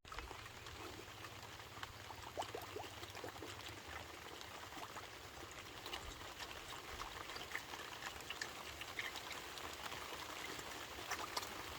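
Faint trickling water sound with many scattered small pops and clicks.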